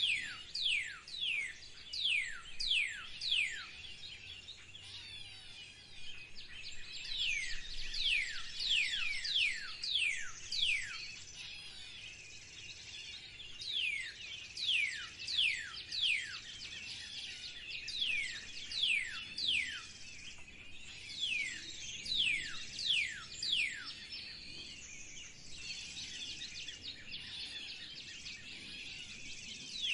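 Songbird calling in runs of quick, sharply down-slurred whistled notes, about two a second, with softer high twittering in the pauses between runs.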